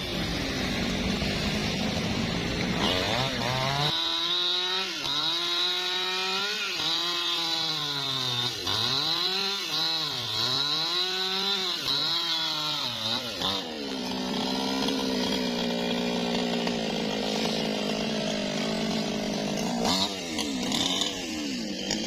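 Newwest 628 two-stroke chainsaw running at high revs while cutting angsana wood. Several seconds in, the engine pitch dips and recovers over and over as the chain bites into the wood, then it holds a steady high pitch.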